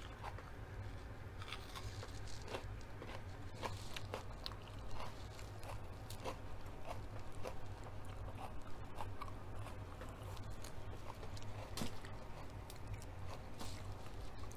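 Close-miked chewing and crunching of raw mini sweet pepper, with many short crisp crackles from irregular bites, over a steady low hum.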